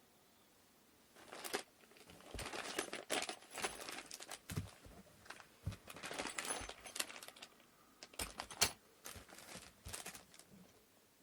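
Wooden inkle loom parts being handled: a run of irregular clicks, knocks and short rustles that starts about a second in and stops shortly before the end.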